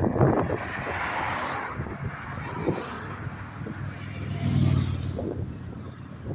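Cars passing on a road, one swelling past about a second in and another, with a low engine hum, about four and a half seconds in.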